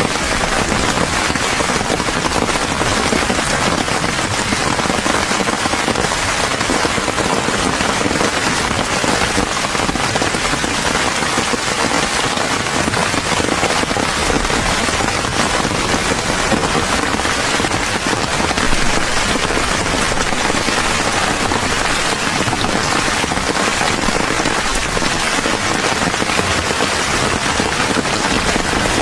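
Steady, heavy rain pattering densely, a continuous crackle of drops without let-up.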